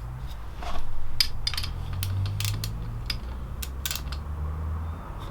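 A string of light, irregular metallic clicks and clinks from a steel flywheel-holder clamp and hand tools being handled and refitted, over a low steady hum.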